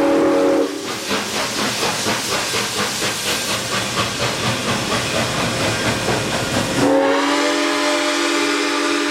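Steam whistle of Iowa Interstate 2-10-2 No. 6988 blowing a chord, breaking off under a second in. The locomotive's exhaust then chuffs in a quick even beat, about three and a half a second, before the whistle sounds again near the end.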